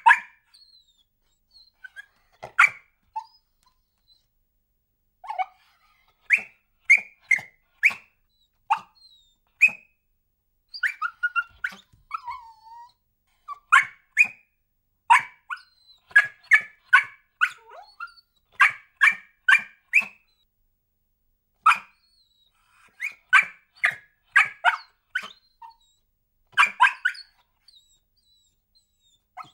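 Dog barking in irregular runs of sharp barks, at times about three a second, with a brief falling whine about eleven seconds in.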